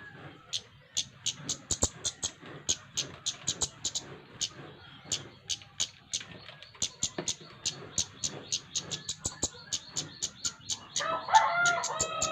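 Flowerpecker (cabe-cabean) calling: a rapid, continuous series of sharp, very high-pitched ticks, several a second. About eleven seconds in, a rooster crows loudly over them.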